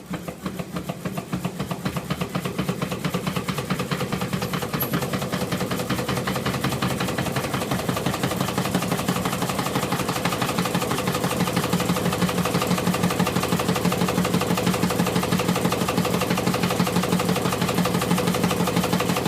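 Prototype permanent-magnet engine running under its own power: a rapid, even clatter of mechanical clicks over a steady hum, building over the first few seconds and then holding steady.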